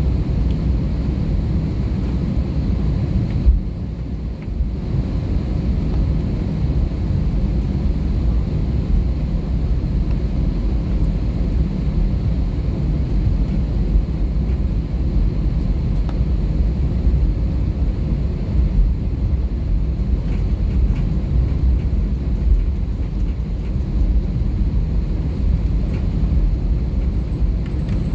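Steady low rumble of engine and airflow noise heard inside the cabin of an Airbus A320-214 with CFM56 engines, briefly dropping about four seconds in.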